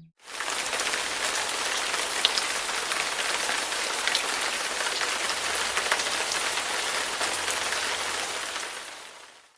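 Sound-effect recording of steady rain: a dense hiss of falling drops with fine pattering ticks, fading out near the end.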